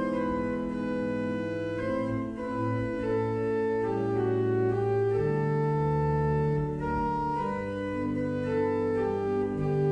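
Organ postlude: slow, sustained chords over long held bass notes that change every second or two.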